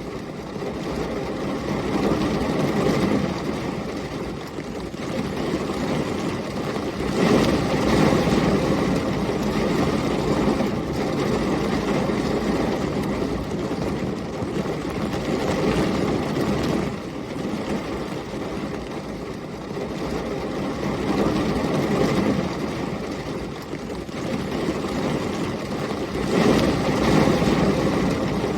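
Heavy rain with storm wind: a dense, steady rushing noise with a low rumble underneath. It swells and eases every several seconds, loudest about seven seconds in and again near the end.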